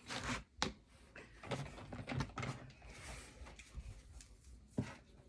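Light knocks and handling noises of toy vehicles being moved about in a container, with two sharper clicks, one just after half a second in and one near the end.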